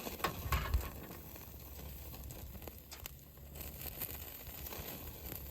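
Skewers grilling over a fire, crackling and popping faintly, with a few sharp clicks in the first second. The food is burning on the grill.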